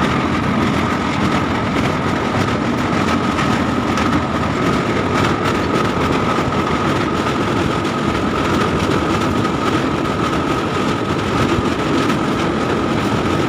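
Passenger train running over a river bridge: a loud, steady rumble of wheels on the rails, with a steady high hum held above it.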